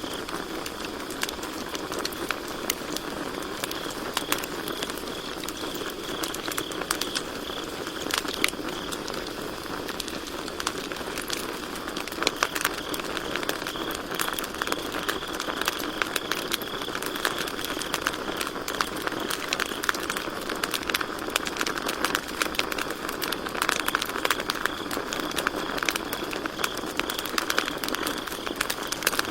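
Campfire crackling with many irregular sharp pops, over a steady high trill of crickets chirping.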